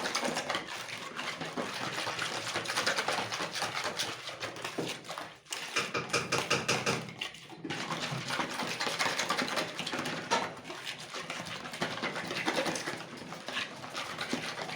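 Rapid whisking of a thin liquid in a bowl: lemon juice and water with cornstarch being beaten so it does not settle at the bottom. It is a steady run of quick scratchy strokes, with a brief pause about five seconds in.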